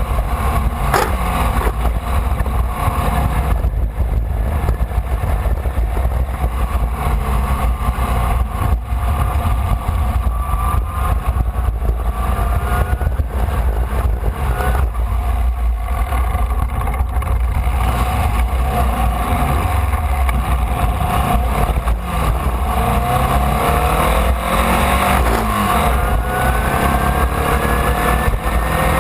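Formula Vee's air-cooled Volkswagen flat-four engine running hard, heard from on board the car. Its pitch climbs steadily several times near the end as it accelerates.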